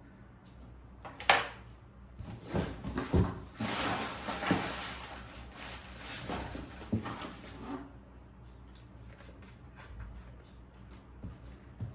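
Mixer grinder jars and parts being handled: a sharp click about a second in, a few knocks, then several seconds of rustling and scraping before it goes quieter.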